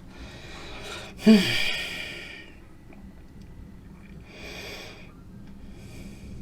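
A man's breathy sigh or snort close to the microphone about a second in, with a brief voiced part falling in pitch, then two softer exhales.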